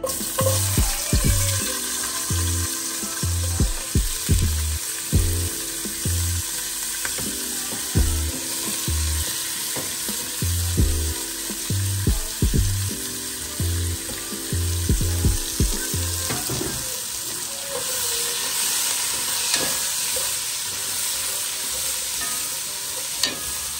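Onion, celery and cabbage frying in hot oil in a pot, a steady sizzle. Background music with a regular beat plays over it and stops about two-thirds of the way through.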